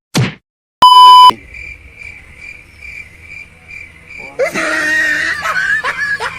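Edited-in comedy sound effects: one last slap, then a loud short beep. After that, cricket chirps pulse about twice a second. About four seconds in, a noisy swell with quick rising chirps begins.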